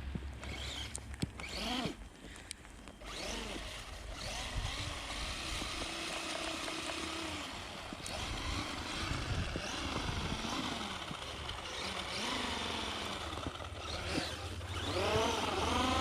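Small electric motor whine of a JJRC Mad Man RC truck's 390 brushed motor, repeatedly rising and falling in pitch as the truck speeds up and slows while driving through snow. The whine grows louder with quicker pitch swings near the end.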